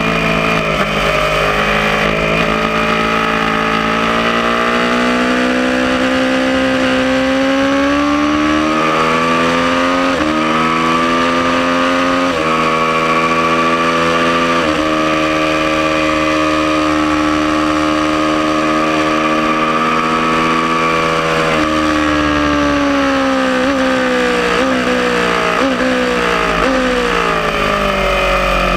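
Aprilia Tuono motorcycle engine under hard acceleration, its pitch climbing and dropping back at upshifts about ten, twelve and fifteen seconds in. It holds a steady high note for several seconds, then winds down with a series of quick downshifts near the end.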